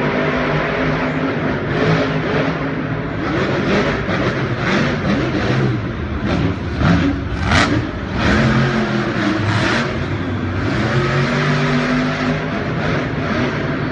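Racing truck engines running and revving, their pitch rising and falling, with a brief louder surge about halfway through.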